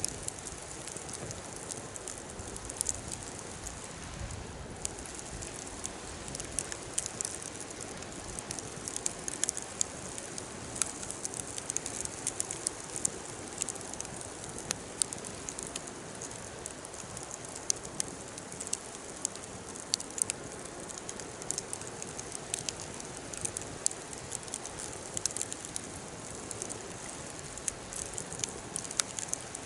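Wood fire crackling: a steady soft hiss with many sharp, irregular pops and snaps, several a second.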